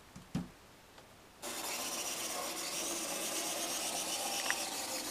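Märklin Mini-Club Z gauge model locomotive running, its tiny motor and wheels making a steady whir and rasp. The whir starts abruptly about a second and a half in and holds steady, after a light knock near the start.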